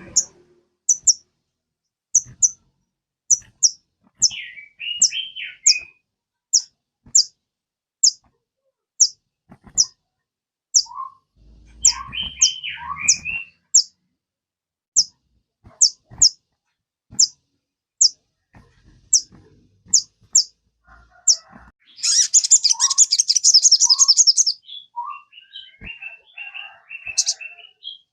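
Sogon bird song used as a lure track to get caged sogon birds singing: short, sharp high chirps repeated about twice a second, broken twice by lower warbled phrases, then a fast high trill lasting a couple of seconds near the end, followed by a jumble of mixed notes.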